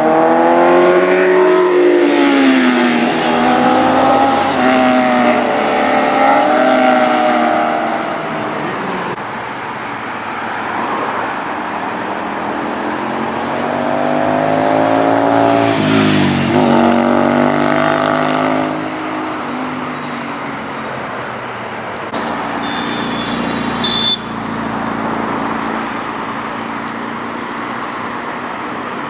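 Sport motorcycle engines revving hard as they ride past, in two waves: one through the first several seconds and another peaking about sixteen seconds in with a sharp drop in pitch as it goes by. Lower steady traffic noise lies between and after the passes.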